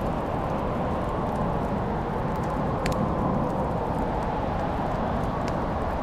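Wood fire crackling: a steady low rush from the flames with scattered sharp pops and ticks, the loudest pop about three seconds in.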